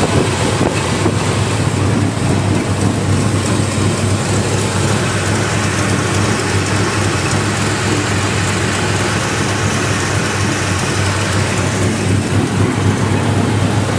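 Bored-out 350 small-block V8 of a 1980 Chevy truck idling steadily, close by, fitted with a relatively mild RV-type cam.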